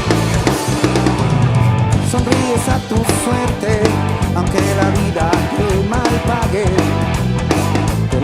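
Rock music with guitar and drum kit, and a wavering melody line over them from about two seconds in.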